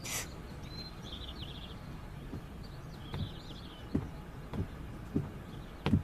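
Birds chirping, with slow footsteps starting about two seconds in, roughly one every 0.6 s; the last step near the end is the loudest.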